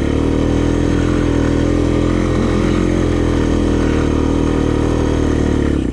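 A single-cylinder ATV engine running steadily at an even speed, with a constant hum.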